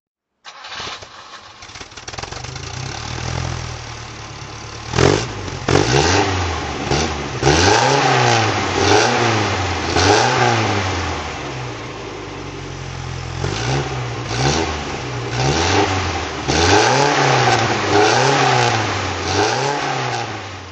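Fiat 1200 cabriolet's four-cylinder engine running, coming in about half a second in. From about five seconds it is revved in repeated quick blips, the pitch rising and falling about once a second, with a steadier spell in the middle before more blips. It fades out at the very end.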